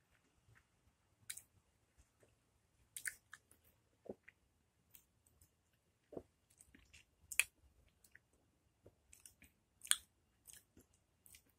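A person chewing raw lemon slices: irregular short mouth clicks and smacks of the lips and tongue, scattered through quiet.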